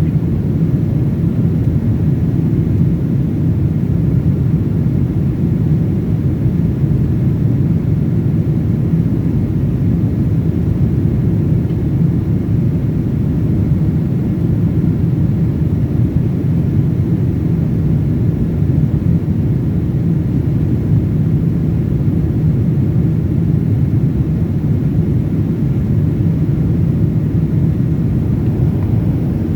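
Steady low drone inside an airliner cabin in flight: engine and airflow noise, unchanging throughout.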